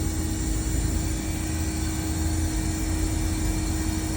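Mitsubishi Electric VRF air-conditioning unit running: a steady mechanical hum with one clear steady tone over a low rumble.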